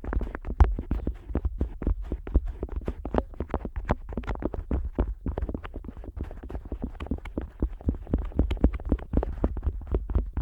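An otoscope rubbing and pressing on the ear of a Neumann KU100 dummy-head microphone, heard from inside the ear. It makes a dense, continuous run of muffled scrapes and bumps, many per second.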